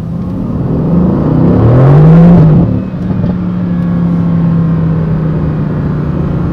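Mercedes-AMG GT C's twin-turbo V8 accelerating, its pitch rising to a peak about two seconds in. It then falls back abruptly and runs on steadily at a constant pitch.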